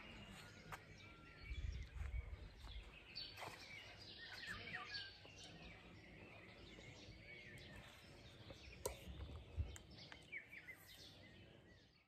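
Faint birdsong, with nightingales among the birds: many short chirps and quick trilling phrases, one after another, from several birds.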